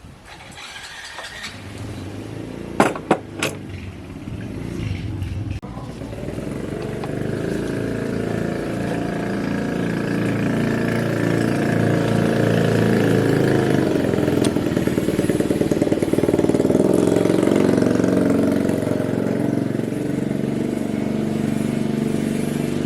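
A few sharp clicks, then a small motor or engine starts up and runs steadily, growing louder over several seconds before holding.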